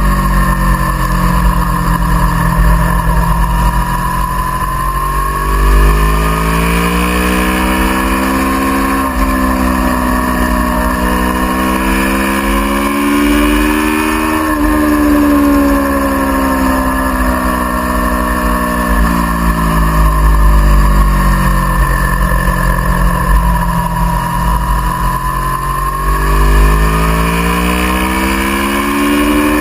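Aprilia Tuono V4R's V4 engine heard onboard at track speed: it pulls up in pitch through a gear change about nine seconds in, peaks about halfway, drops away as the bike slows for a corner, and climbs again near the end. Wind rumbles on the microphone throughout.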